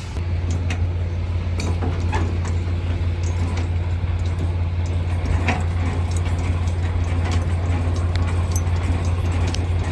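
Semi truck's diesel engine running steadily with a low hum, with scattered light clicks and knocks over it.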